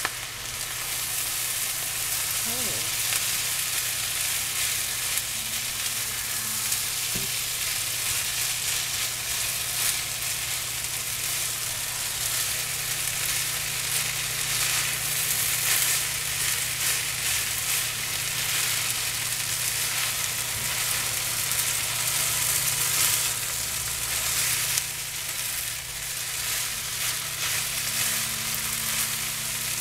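Fried rice with chicken and soy sauce sizzling steadily in a frying pan, stirred with a utensil now and then.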